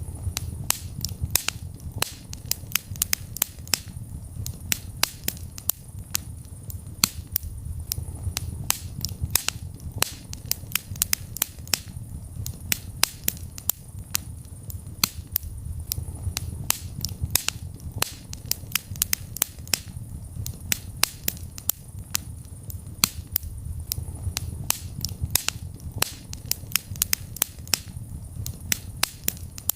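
Wood fire in a fireplace crackling: many sharp, irregular pops several times a second over a low, steady rumble.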